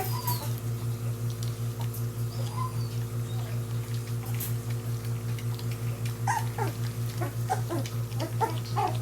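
Young Portuguese Water Dog puppies making small squeaks and grunts, a couple early on and then many close together from about six seconds in. Under them runs a steady hum that pulses about four times a second.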